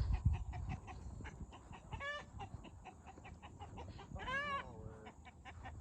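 Chickens clucking in quick repeated notes, with a short squawk about two seconds in and a longer, drawn-out call a little after four seconds.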